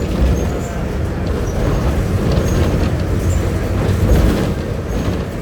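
Diesel engine of a Volkswagen 17-230 OD city bus running, a steady low drone.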